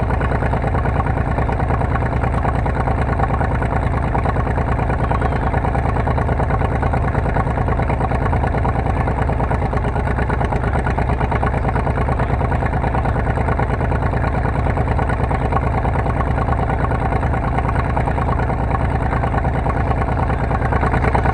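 Car engine running steadily and loudly, with an even stream of firing pulses and no clear revving up or down.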